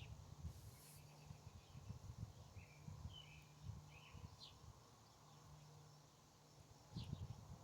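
Faint, short high bird chirps, a handful in quick succession in the middle and one more near the end, over a quiet low rumble that rises briefly near the end.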